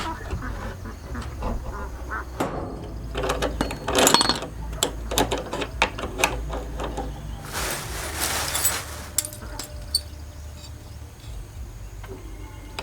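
Scattered light knocks and clicks of tools and materials being handled, with a brief hissing scrape about seven and a half seconds in.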